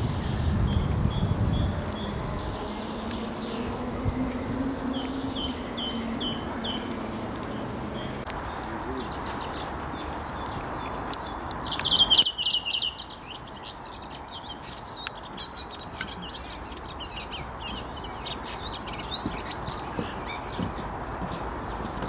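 Songbirds chirping and singing outdoors, with a low rumble underneath early on. A loud short trill comes just before the background changes abruptly about twelve seconds in. After that, a busier chorus of chirps and twittering trills follows.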